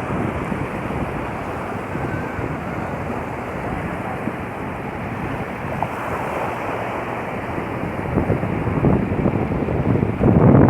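Sea waves washing on the shore with wind rumbling on the microphone, a steady rush that swells louder near the end.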